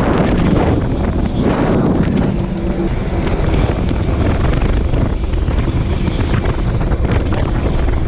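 Strong gusting wind buffeting the microphone: a loud, continuous rumble that swells and eases.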